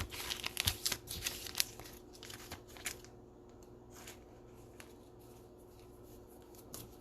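Trading cards in plastic sleeves and top loaders being handled and sorted: plastic rustling with light clicks, busiest in the first three seconds, then faint.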